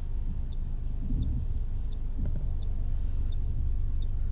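Car interior: the car's steady low road and engine rumble while driving, with the turn-signal indicator ticking evenly, about three ticks every two seconds.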